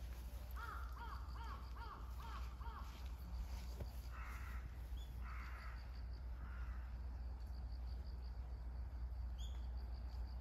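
Birds calling outdoors: a quick run of short arched chirps, then three harsh calls about a second apart, over a steady low rumble.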